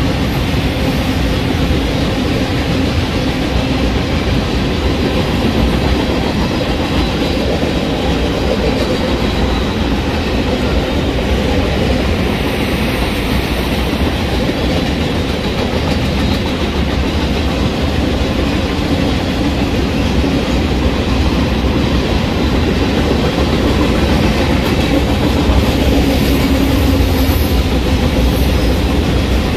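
Long freight train's cars rolling past a grade crossing: a steady rumble and rattle of steel wheels on the rails that carries on unbroken, growing a little louder near the end.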